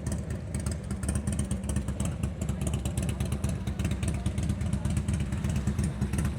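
Motorcycle engines running nearby, a steady low rumble.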